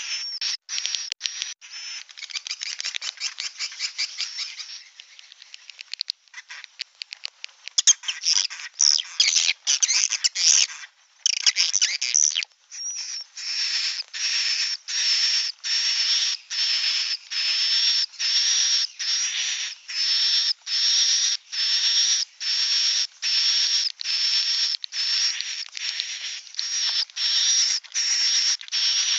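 Bird calls: at first a dense, fast twittering of high chirps. From about halfway it settles into a steady series of identical chirping calls, about one and a half a second.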